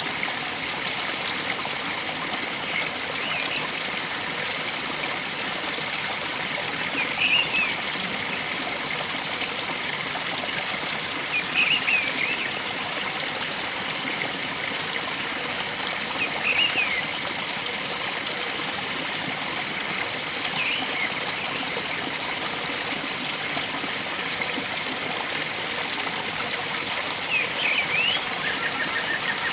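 Steady rush of flowing water, with a bird giving a short call about every four to five seconds, six times in all.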